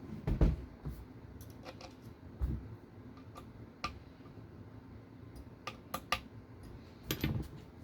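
Scattered light clicks and taps as small RC car parts, screws and a hand tool are handled, with a few soft thumps near the start, about two and a half seconds in and near the end.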